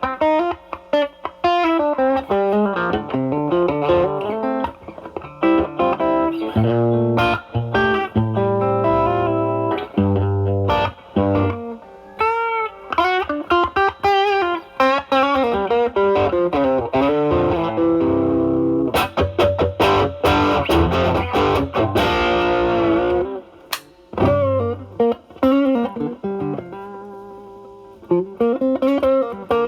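Stratocaster with single-coil pickups, played through an Ibanez Tube Screamer Mini (TSMINI) overdrive pedal into a Marshall Valvestate amp's drive channel, set so the tone cleans up. It plays improvised single-note lead phrases with bends and slides, breaking off briefly a little past two-thirds of the way through.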